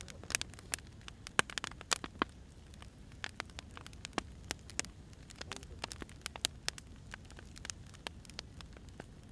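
Firewood burning, crackling with irregular sharp pops and snaps, several a second, over a low steady rumble.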